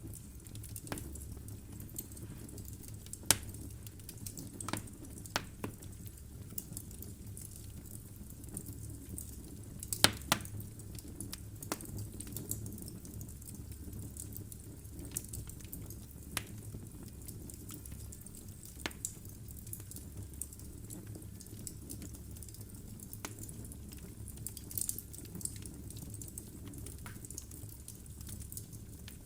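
Wood fire burning in a fireplace: a steady low rumble with scattered sharp crackles and pops from the logs, the loudest pops about three and ten seconds in.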